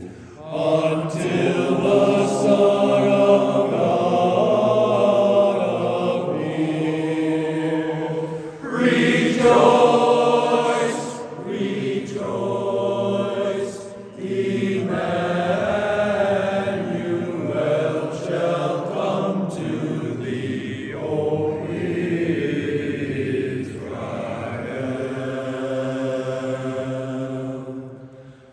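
Barbershop chorus singing a cappella, slow sustained chords in close harmony, phrase after phrase with short breaths between them.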